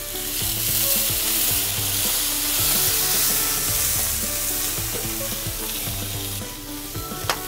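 A splash of water sizzling into steam on a hot cooking surface around a sandwich, a loud hiss that dies away about six and a half seconds in. Music plays quietly underneath, and there is a short click near the end.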